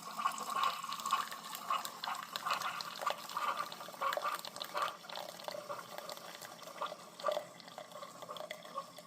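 Keurig single-cup coffee maker brewing: coffee streams and drips into the cup with irregular gurgles and spits. The machine is brewing normally again after air was sucked out of its intake hose.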